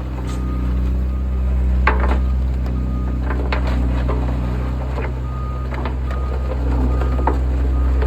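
Volvo vibratory roller's diesel engine running steadily, with its reversing alarm beeping on and off. A few sharp metallic knocks are heard along the way.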